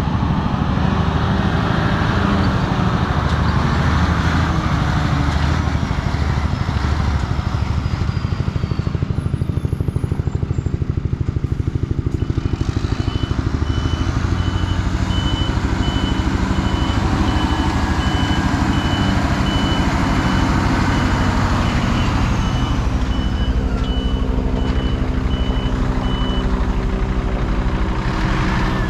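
Scania R124 truck tractor's 12-litre straight-six diesel engine running steadily. Through the middle stretch a reversing alarm beeps at an even rate over the engine.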